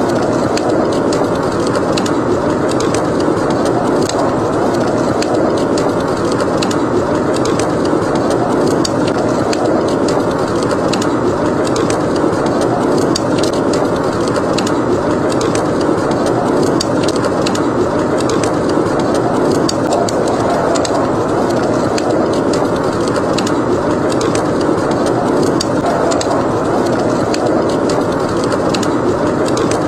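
Howling snowstorm wind as a steady noise, with a burning fireplace crackling over it in many small, sharp pops throughout.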